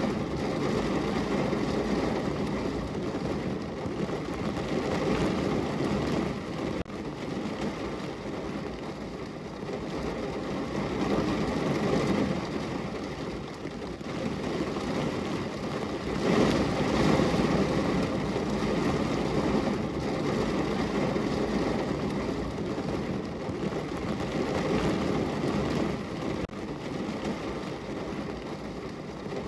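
Rain falling steadily on a window pane, a dense even patter that swells louder a few times and eases again.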